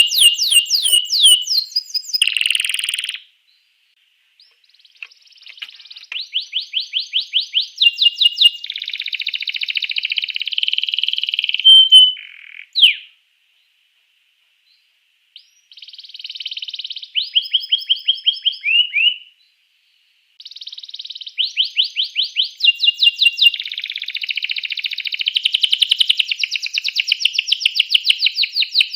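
Canary singing long phrases of rapid, high trills and repeated chirps, with short pauses between phrases.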